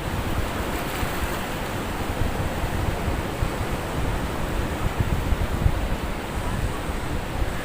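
Ocean surf washing ashore in strong wind, a steady rushing noise with wind buffeting the microphone as a low rumble.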